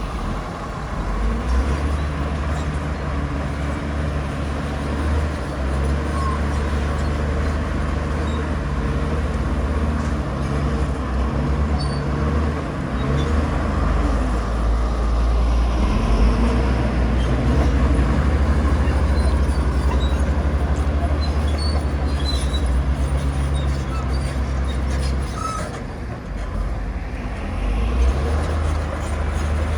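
Heavy diesel earthmoving machinery running with a steady, deep engine drone, which drops off briefly near the end.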